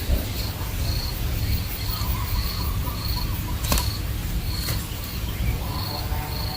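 Insect chirping: short, high chirps repeating about twice a second, over a steady low rumble.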